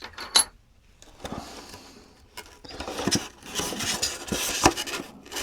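Knapped stone points and preforms handled in a box: a few sharp clicks as stones knock together, then rustling and scraping of the packing with small clicks, louder in the second half.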